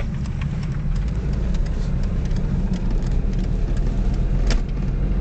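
Car engine running under way with road noise, heard from inside the cabin as a steady low rumble, with a few light clicks. The freshly adjusted clutch is holding without slipping, so the engine speed rises together with road speed.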